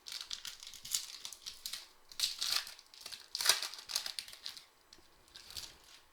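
Crinkling and rustling of a foil trading-card pack wrapper and cards being handled, in irregular bursts, loudest about two and a half and three and a half seconds in.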